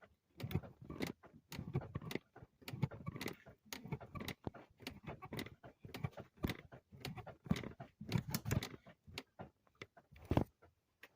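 Irregular clunks, knocks and rattles from a BMW E92 being rocked back and forth by hand while in gear, a check for whether the N54 engine's crankshaft turns.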